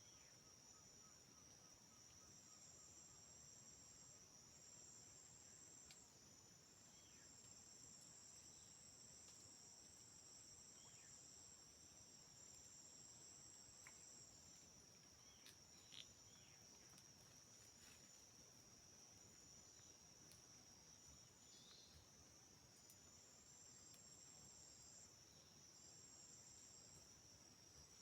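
Faint, steady, high-pitched chorus of insects such as crickets, with a second, higher layer pulsing on and off. A few faint short chirps and a small click sound over it.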